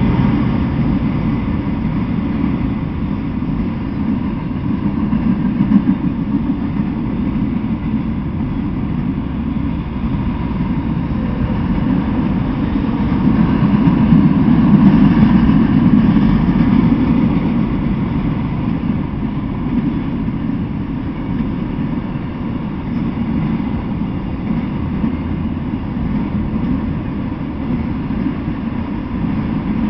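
Freight train of autorack cars rolling past: a steady rumble of steel wheels on the rails, swelling somewhat about halfway through.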